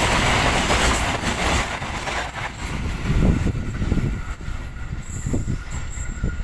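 A train passing on the track: a loud rush of wheel-on-rail noise over the first couple of seconds, easing into a lower rumble with irregular knocks.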